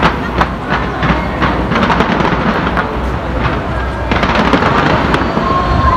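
Fireworks going off in quick succession: a dense run of sharp bangs and crackles.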